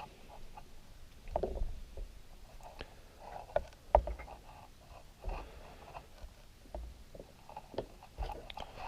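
Faint handling noises as Milliput epoxy putty is pressed into a plastic toy's body by hand: scattered small clicks, taps and soft bumps of plastic with light rubbing between.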